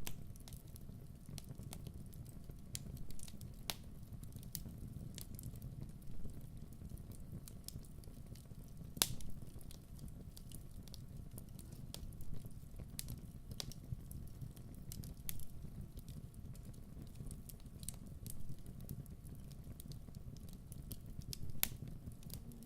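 Fire crackling: irregular sharp pops and snaps over a steady low rumble of burning, the loudest pop about nine seconds in.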